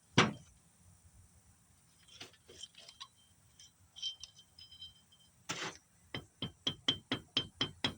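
Light metal-on-metal tapping and clinking, ending in a quick run of about a dozen sharp taps, roughly five a second, each with a short high ring: a 7/16 socket being tapped to drive a snap ring home in a Holset HX35W turbo.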